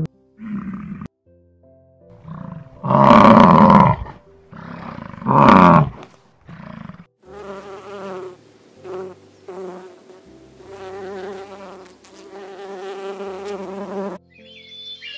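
A yak's calls: a series of loud vocal calls, the two loudest about three and five and a half seconds in. Then a bumblebee buzzes steadily with a wavering pitch for about seven seconds, and high bird-like chirps start near the end.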